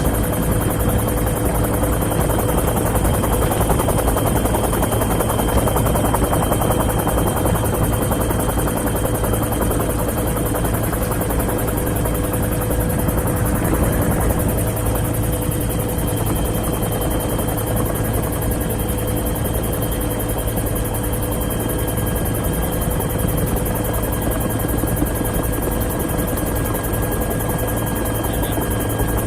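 Helicopter running steadily: a constant drone of rotor and engine with a thin, steady whine over it.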